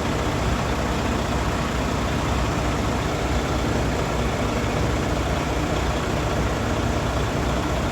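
Heavy truck's diesel engine idling steadily, a low, even rumble.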